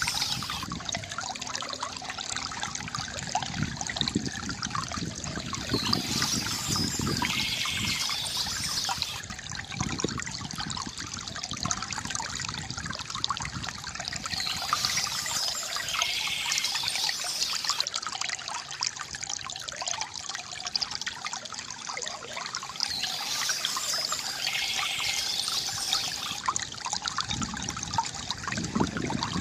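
Small stream trickling and gurgling steadily over stones, with brighter splashy swells that recur about every nine seconds.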